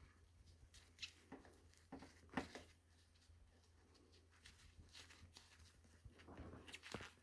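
Near silence in a small room: a few faint clicks and taps, the loudest about two and a half seconds in, over a low steady hum.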